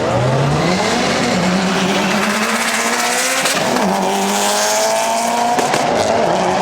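Car engine accelerating hard, its note climbing, dropping at a gear change about four seconds in, then climbing again.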